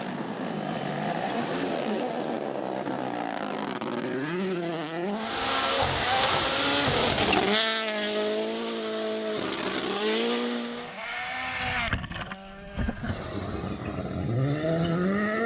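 Rally cars at speed on a special stage, their engines revving hard and dropping on each gear change and lift, several passes in succession. A few sharp pops come about twelve seconds in.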